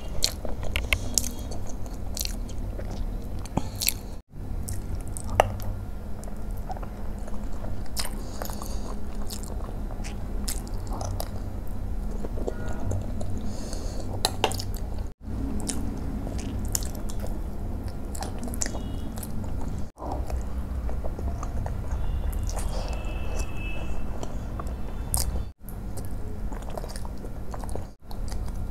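Close-miked eating of rasmalai: soft, wet chewing of the milk-soaked cheese dumplings, with short clicks of a steel spoon against the ceramic bowl. The sound drops out completely for an instant several times.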